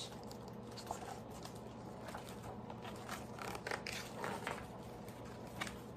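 Faint rustling and a scattering of light clicks of a paper book being handled and its page turned, over a low steady hum.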